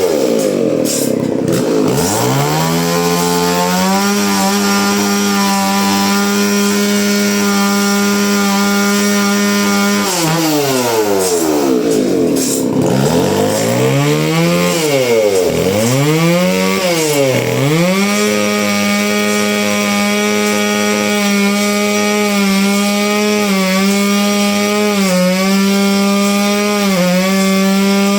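An engine-driven saw cutting wood at high, steady speed. Its pitch drops sharply as the blade bogs down in the dense timber, then climbs back, once near the start and two or three times around the middle.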